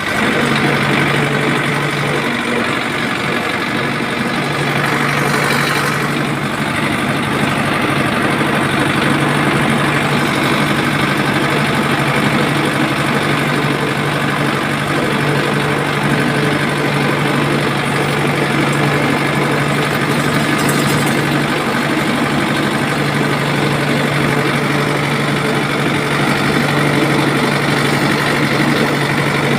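An engine or motor running steadily at a constant low hum, with no change in speed.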